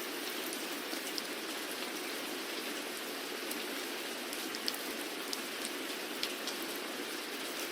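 Steady rain falling, an even hiss with scattered sharp drip ticks standing out now and then.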